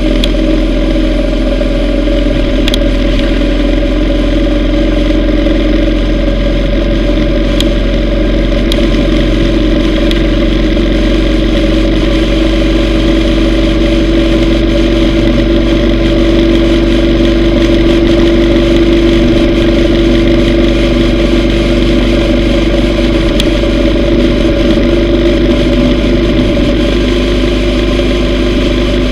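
Yamaha V Star 950's air-cooled V-twin engine running steadily at cruising speed on the road. The engine note climbs a little toward a peak about two-thirds of the way through, then eases back slightly.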